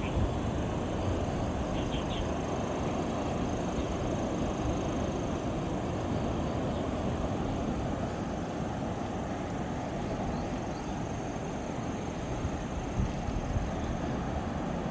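Steady rushing rumble of sea surf and wind.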